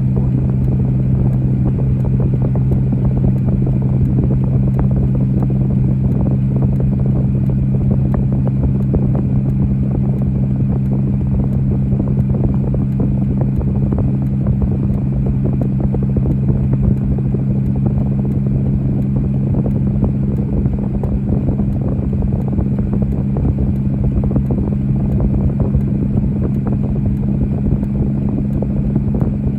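Steady drone of a motor vehicle: a constant low hum over an even rushing noise, unchanging in pitch and level.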